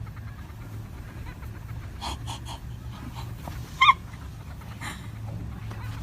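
A dog making a few short sounds over a steady low hum. The loudest is a brief pitched call about four seconds in.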